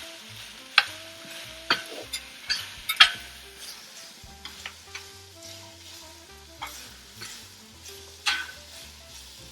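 Onions and carrots sizzling in a hot pan while a utensil stirs them. The utensil knocks sharply against the pan several times, most of them in the first three seconds.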